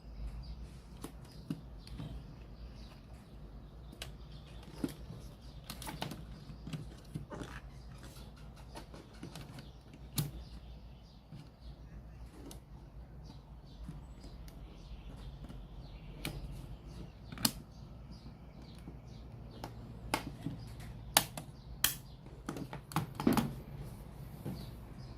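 Scattered clicks, taps and small knocks at irregular intervals, as of handling a radio cassette player and tools during repair, over a low steady hum. The taps grow more frequent in the last few seconds.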